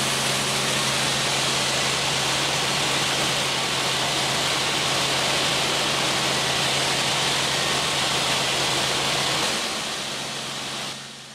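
Helicopter running steadily: a constant loud hiss over a low hum. It weakens near the end and then drops away sharply.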